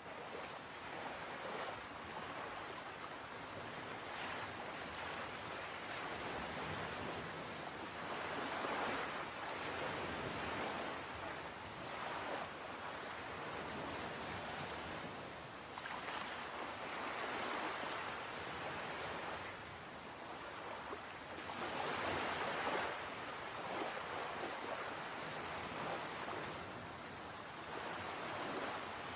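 Sea water washing and lapping, with waves swelling and easing every few seconds.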